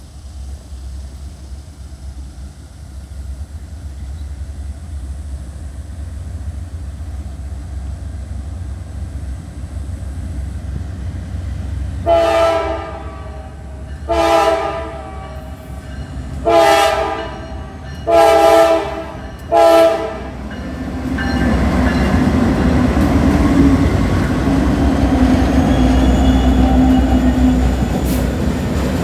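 Norfolk Southern diesel freight locomotives approaching a grade crossing: a low engine rumble builds, then the air horn sounds five chord blasts midway, the crossing warning. The lead units then pass with a loud steady engine drone and wheels clacking on the rails.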